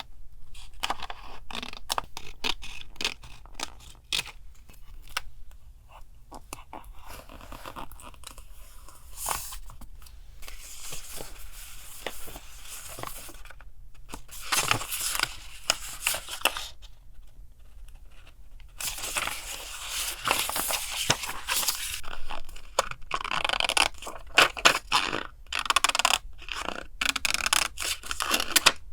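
Paper and craft materials being handled: stretches of rustling, tearing and scraping paper, broken by many small taps and clicks, over a low steady hum.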